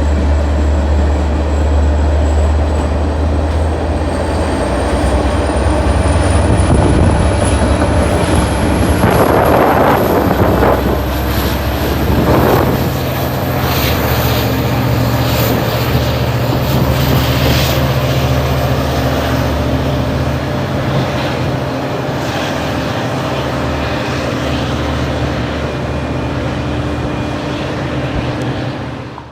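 Train running at close range: a loud, steady deep rumble with a thin high whine that rises in pitch over the first dozen seconds, then holds.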